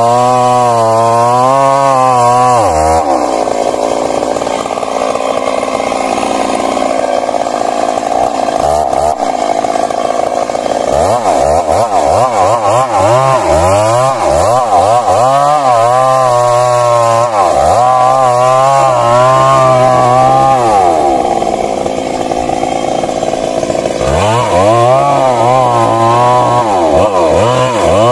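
Stihl MS 382 two-stroke chainsaw running at high revs while cutting through a large tree trunk. Its pitch swings up and down repeatedly as the bar works in the wood, with steadier stretches of hard cutting.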